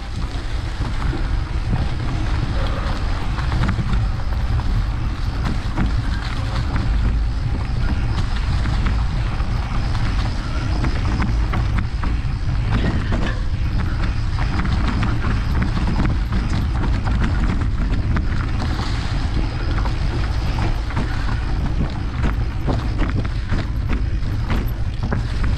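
Wind buffeting the microphone of a camera on a mountain bike being ridden along a trail. The rumble runs steady, with scattered knocks and rattles throughout.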